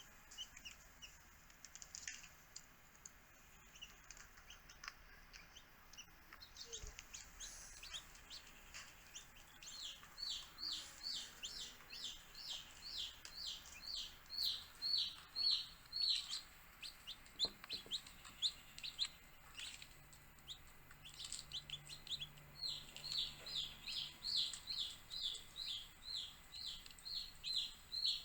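Baby chicks peeping, a rapid run of short high chirps, each falling in pitch, about three or four a second. Sparse at first, the peeps become near-continuous from about a third of the way in.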